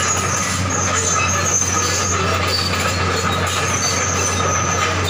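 Excavator running, with a steady low engine hum under high, drawn-out metallic squealing.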